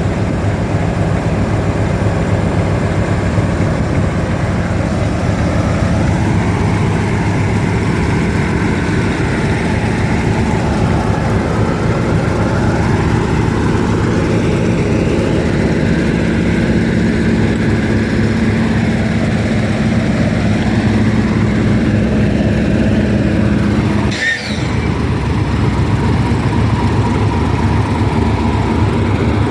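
Heavy diesel locomotive engine idling steadily (British Rail Class 56 and Class 31 locomotives), a constant low engine note with a brief break about three-quarters of the way through.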